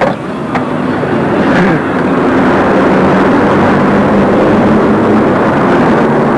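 A car running: a steady engine and road noise, with two sharp clicks in the first second.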